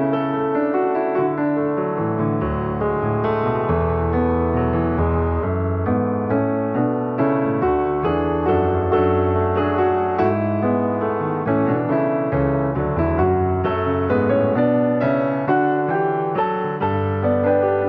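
Background piano music: a steady run of repeated notes over sustained bass chords.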